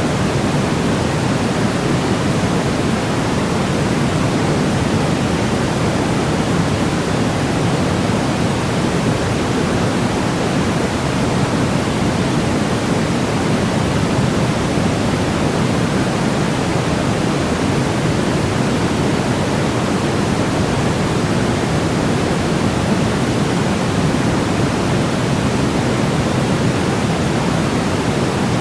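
Steady synthetic white noise for baby sleep: an even, unchanging rush with no pattern, fuller in the lows and mids than in the highs.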